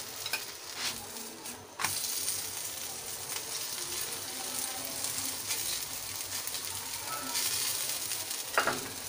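Paratha frying in ghee on a hot tawa, with a steady sizzle. A short sharp click a little under two seconds in, after which the sizzle is louder, and a louder stroke of a steel spoon against the tawa near the end.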